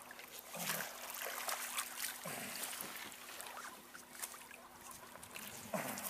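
Water splashing and trickling irregularly around a small boat and a person in the water working a rope around their foot.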